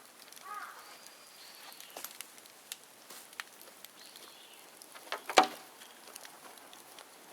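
Bonfire of dead bamboo crackling, with scattered sharp pops and one loud crack about five seconds in. A bird gives a short call just after the start.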